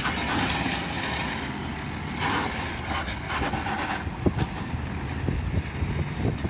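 A vehicle's engine running under rough, noisy sound, with a few sharp knocks in the second half.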